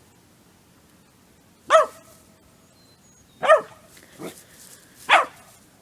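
A dog barking: three loud, sharp barks spaced about a second and a half apart, with a quieter bark between the last two.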